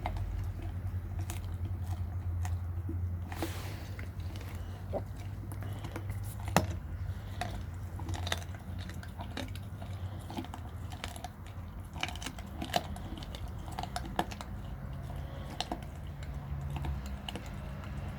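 A Perro de Presa Canario chewing and biting on a raw sheep's head: irregular crunches and cracks of teeth on bone, the sharpest about six and a half seconds in. A steady low rumble runs underneath.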